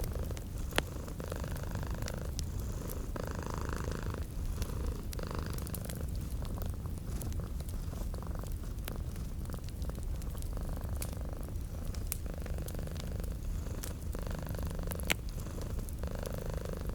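A cat purring steadily and close, the purr swelling and easing with each breath. A few sharp pops and crackles from a wood fire are scattered through it.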